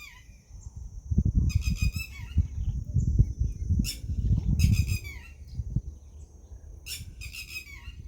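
A bird gives harsh, chattering calls four times, each about half a second long. Under them is low rumbling and thumping noise, loudest in the middle seconds.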